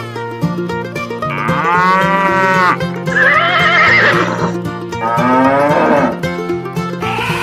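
Three cow moos in a row, long pitched calls: the first rises then falls, the second wavers, the third falls away. Background music with a steady repeating pattern runs underneath.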